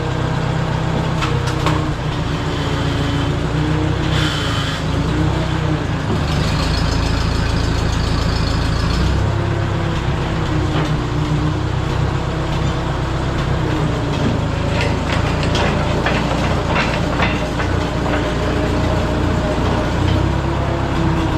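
Case 310 crawler dozer's engine running, its pitch rising and falling as the machine is driven back and forth, with scattered metal clanks and a thin high squeal for a couple of seconds about a third of the way in.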